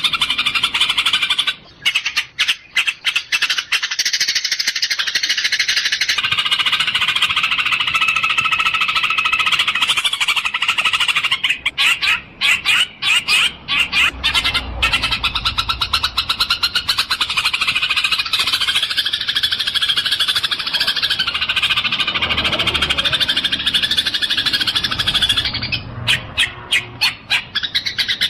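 Dense, continuous chirping and chattering of Eurasian tree sparrows, rapid notes packed together, with a few brief dips in the chatter.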